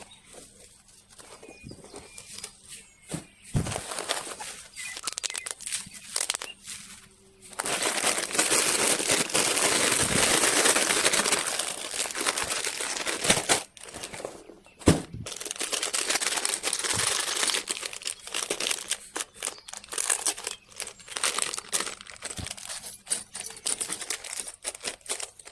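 Crinkling and rustling with many scattered clicks, and a dense, louder stretch of rustling from about a third of the way in to about halfway.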